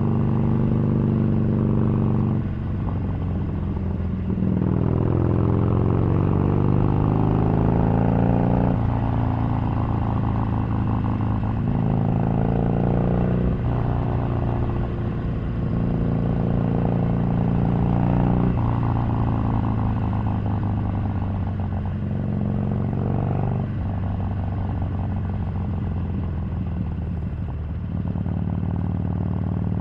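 Harley-Davidson 883's V-twin engine under way, its note climbing as the bike pulls and dropping sharply at each shift or throttle-off, several times over.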